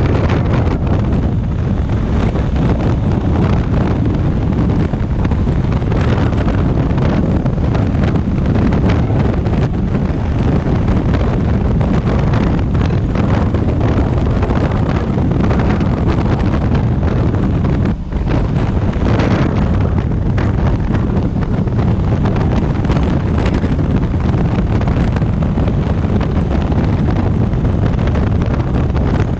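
Loud, steady wind buffeting on the microphone of a camera riding on a moving motorcycle, with a brief drop about 18 seconds in.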